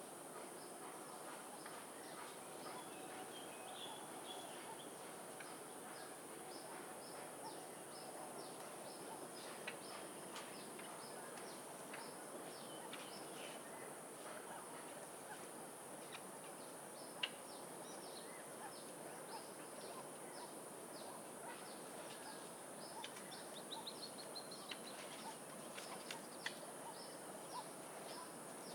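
Caged birds chirping: short, high chirps scattered throughout, coming in quick runs now and then, over a steady high hiss.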